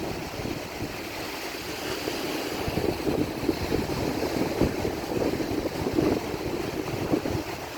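Ocean waves breaking and washing on the shore in a continuous rush that swells and eases, with wind buffeting the microphone in low gusts.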